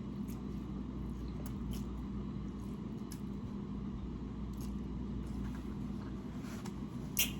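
A person chewing a mouthful of lo mein noodles, with scattered soft wet mouth clicks, the sharpest one near the end, over a steady low background hum.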